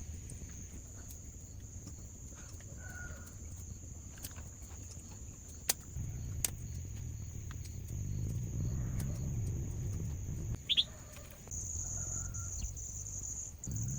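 Countryside ambience: insects keep up a steady high-pitched buzz that starts pulsing more strongly near the end, with a few short bird chirps over a low rumble.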